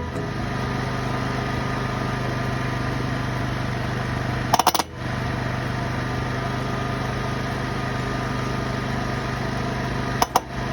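Steady machine running with a constant hum, broken about halfway through and again near the end by a few sharp clicks and a brief dropout.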